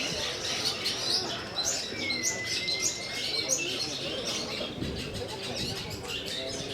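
Long-tailed shrikes (cendet) singing in a contest: a dense stream of quick, high chirped notes from several birds, with one long whistled note held for about a second, two seconds in. A murmur of voices sits underneath.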